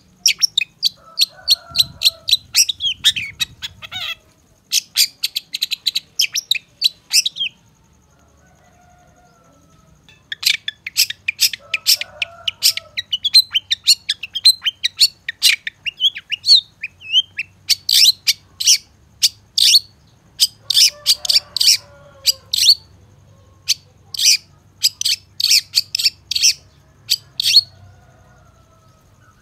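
Long-tailed shrike (cendet) calling: rapid series of sharp, high notes, a few each second, in bouts with a pause of about two seconds roughly a third of the way in, and fainter, lower chirps underneath.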